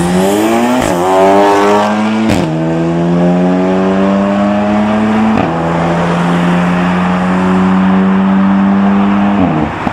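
Audi S3's turbocharged four-cylinder engine accelerating hard away from the lights. The revs climb and drop back at each upshift, four gear changes in all, with a sharp crack at the second shift.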